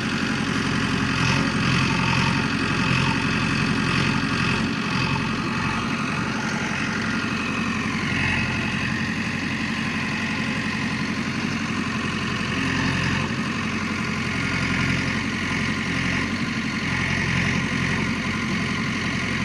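Engine idling and running steadily, the sound of a JCB backhoe loader at work loading sand.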